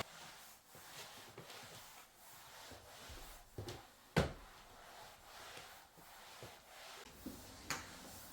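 Scattered soft clicks and knocks of things being handled in a small room, with one sharper knock about four seconds in.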